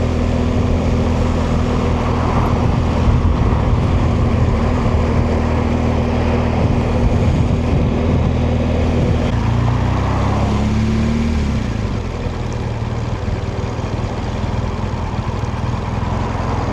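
BMW R1200GS boxer-twin motorcycle engine running steadily under way, with wind noise over it. The engine note shifts about ten seconds in, then the sound runs a little quieter.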